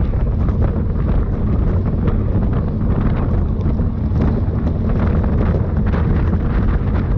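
Heavy wind rushing over the microphone of a camera mounted on a road bicycle ridden at race speed, a dense low rumble with small knocks from the bike now and then.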